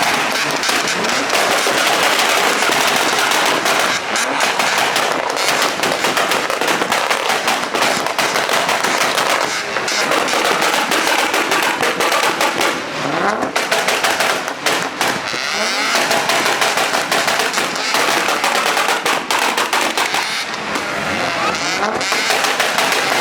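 Long, unbroken run of rapid crackling bangs, machine-gun-like, with car engine noise behind them.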